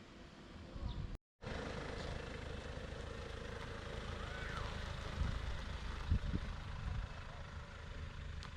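Steady low rumble of a running vehicle, with a few low thumps near the middle. The sound drops out for a moment about a second in.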